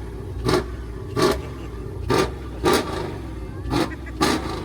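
Car engine idling with a low rumble, blipped with six short, sharp throttle stabs.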